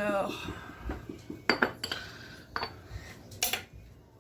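Coffee cup and cutlery clinking and knocking as they are handled: a handful of separate sharp clinks with a brief ring.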